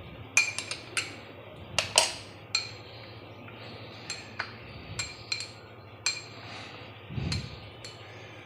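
Scattered sharp clinks and taps of kitchenware, about a dozen, as chicken pieces are dipped into a bowl of beaten egg, with one duller thump a little after seven seconds.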